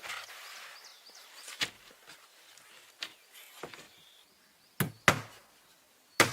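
Rustling, then a few scattered light knocks and two hard blows on wood near the end.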